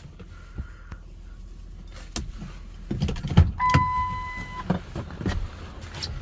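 Car cabin noise while driving on a flooded road: a steady low rumble with several thumps and knocks in the middle, and a steady electronic beep lasting about a second, starting about three and a half seconds in.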